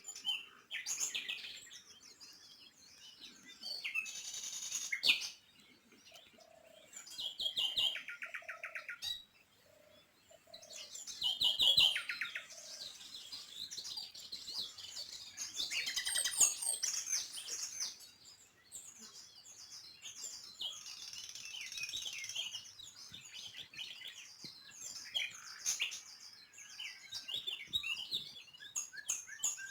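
Small birds chirping and twittering, with many overlapping short calls and trills. About a quarter of the way in comes a short run of lower, evenly repeated notes.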